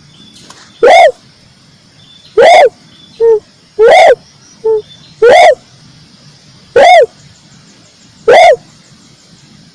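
Red dove (tekukur merah) call played as a bird lure: a loud, short rising-and-falling hoot repeated about every second and a half, six times. Two softer short notes fall between them.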